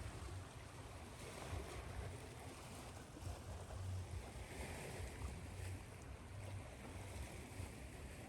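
Ocean surf washing in and easing off, mixed with a steady white-noise hiss.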